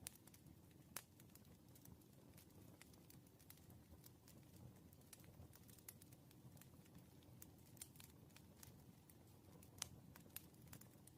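Wood fire crackling faintly: irregular snaps and pops over a low, steady rumble, with sharper pops about a second in and near the end.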